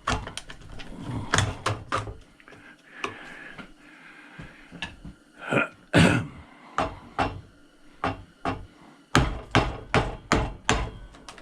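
Tools banging and knocking on a chop saw as it is forced apart without care: irregular sharp knocks in clusters, the loudest about six seconds in.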